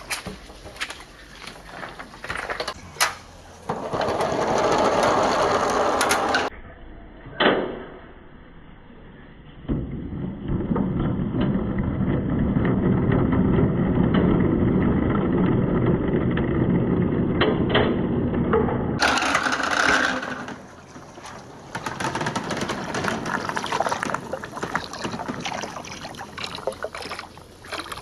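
Marbles rolling and clacking along a handmade marble run track, with sharp clicks of marbles knocking together and against the track. In the middle comes a long steady rolling rumble lasting several seconds, then more rattling and clicking near the end.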